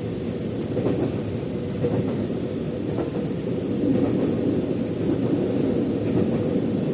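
Metro train in motion: a steady low rumble of wheels on track, with faint knocks about once a second.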